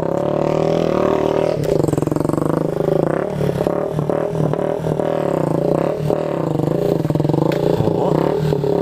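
Small motorcycle engine revved hard and held high, its pitch wavering up and down without a break: the 'tempestade' rev style.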